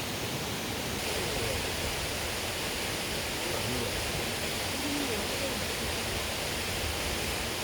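Mountain valley stream, water rushing in a steady, even rush.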